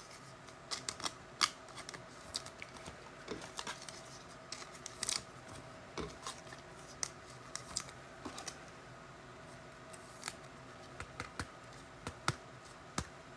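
Trading cards and foil packs being handled at a table: scattered small clicks, snips and rustles at an irregular pace.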